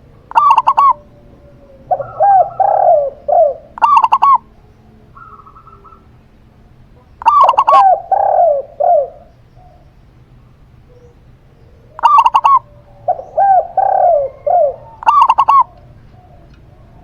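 A zebra dove and a spotted dove cooing in three bouts about five seconds apart. Each bout mixes a few short, sharp, high-pitched coo notes with a run of lower, rolling coos.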